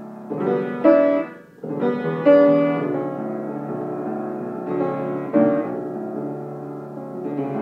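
Keyboard playing slow, held minor-ninth chords, with a new chord struck roughly every second or two and left to ring.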